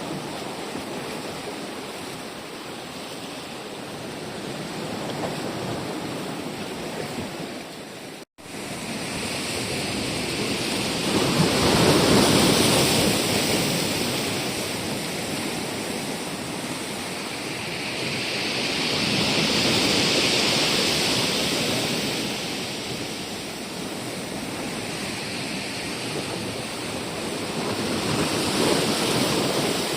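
Rushing, washing noise with no distinct tones, swelling and fading roughly every eight seconds. It breaks off for an instant about eight seconds in.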